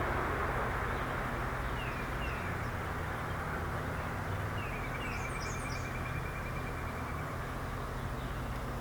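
Small birds calling: a few short downward chirps, then a trill about halfway through, with some higher notes. Underneath is a steady rushing background noise.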